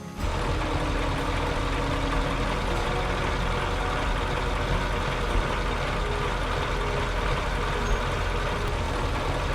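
Tractor engine running steadily, cutting in abruptly just after the start.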